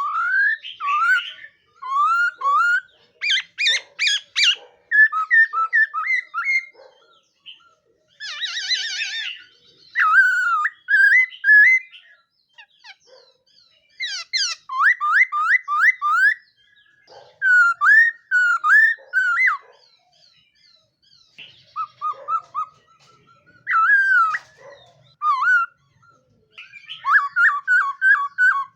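Black laughingthrush (khướu mun) singing: bursts of loud whistled phrases with quick rising and falling notes, broken by short pauses and by rapid chattering trills.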